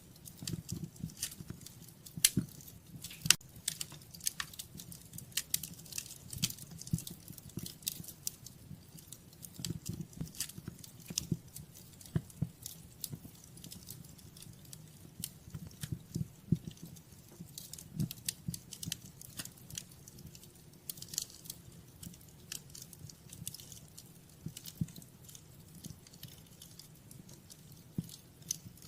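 Wood fire crackling in a fireplace: irregular sharp pops and snaps, several a second with a few louder ones, over a low steady rumble of the burning fire.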